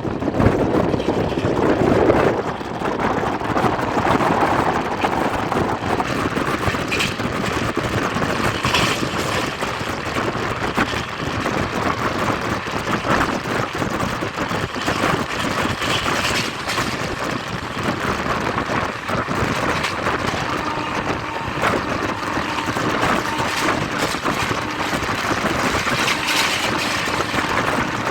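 Train running at high speed: a steady rushing rumble of wheels on the track mixed with wind noise.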